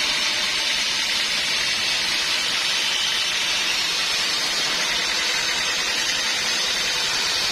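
Sawmill saw cutting through wood, a steady high rushing noise with no change in level.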